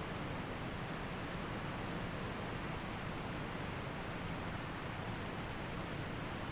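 Waterfall and creek water rushing in a steady, even flow.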